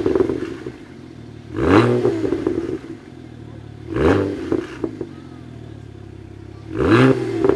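Tuned BMW 1M's twin-turbo inline-six idling and blipped three times, each rev climbing sharply then falling back. Each blip is followed by a quick string of crackles and pops from the exhaust, like a rally car's anti-lag system.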